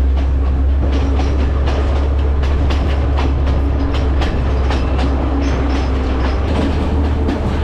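Passenger train running along the track, its wheels clattering over the rail joints above a steady low rumble, heard from inside a carriage.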